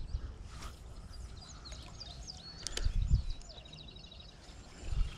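Birds chirping and calling, many short high notes scattered throughout, with a low thump about three seconds in and another near the end.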